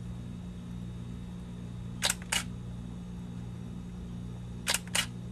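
Camera shutter clicking as two photos are taken, each a quick double click, the second about two and a half seconds after the first, over a steady low hum.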